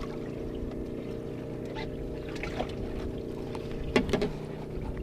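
Boat engine idling with a steady hum. Two sharp knocks come about four seconds in.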